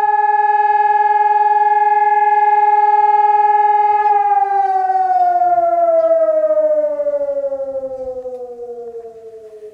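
Motor-driven civil defence alarm siren holding one steady tone, then winding down: about four seconds in its pitch begins to fall slowly and it fades as it runs down.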